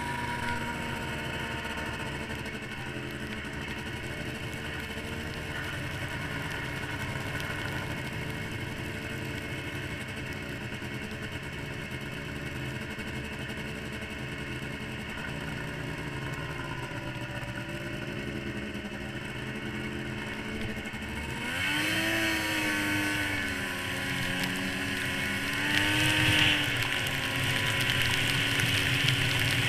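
Yamaha SRX 700 snowmobile's three-cylinder two-stroke engine running at a steady pitch under way. It revs up sharply about two-thirds through and again near the end.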